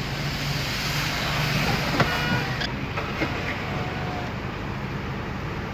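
Steady rain hiss on a car, heard from inside the cabin, over the low steady hum of the car's engine running. A single short knock about two seconds in.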